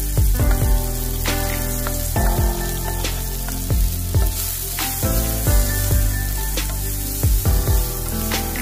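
Chopped bell peppers and onions sizzling in a non-stick frying pan as they are stirred, under background music with held tones and a thudding beat.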